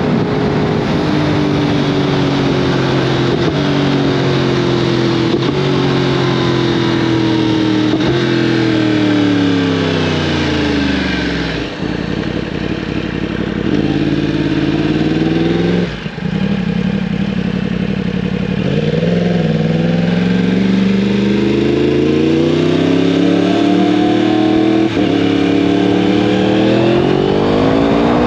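2015 Yamaha R1M's crossplane-crank inline-four through an Akrapovic exhaust, under way: revving up in short pulls broken by quick gear changes, then the note falling away in a long glide as the bike slows, before it rises and falls again and climbs hard near the end.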